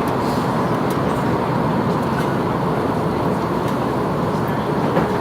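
Steady roar inside the cabin of an Airbus A330-300 on approach, from the engines and the airflow over the airframe with the landing gear lowered.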